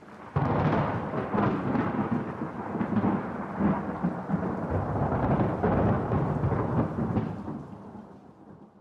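A thunder clap that breaks in suddenly and rolls on for about seven seconds before fading away.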